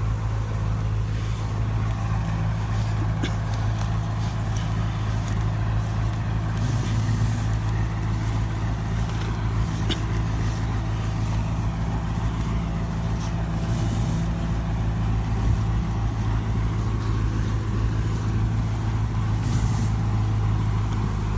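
Heavy truck's diesel engine running at steady revs, a deep even drone, with scattered clicks and a few short hisses over it.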